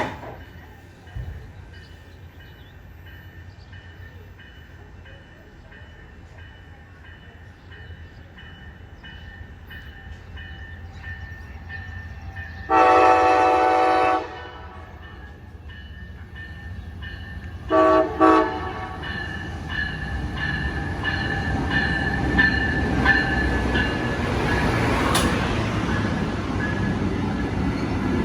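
Amtrak Pere Marquette passenger train arriving. The locomotive horn sounds one long blast, then about five seconds later two short blasts, while the rumble of the approaching train grows steadily louder.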